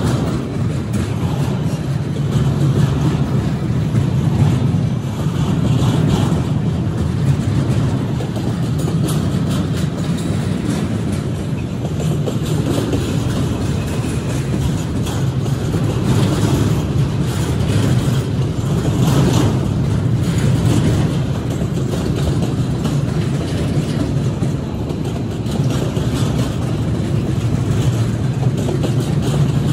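Double-stack container train's well cars rolling past: a steady rumble of steel wheels on rail, with a few sharper clatters now and then.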